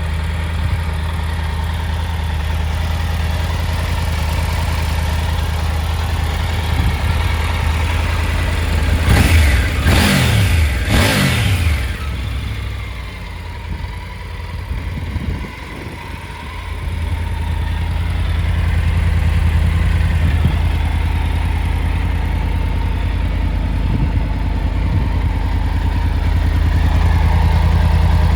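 Triumph Tiger 900 GT's three-cylinder engine idling steadily, with three quick throttle blips about a third of the way in, each revving up and dropping straight back to idle.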